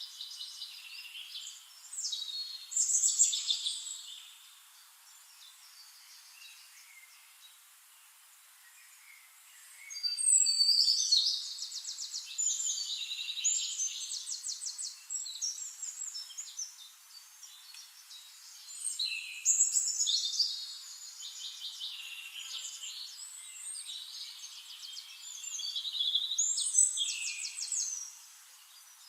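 Several songbirds singing, with fast trilled phrases and chirps in loud spells, the loudest about three seconds in and again about ten, twenty and twenty-seven seconds in, with quieter calling between.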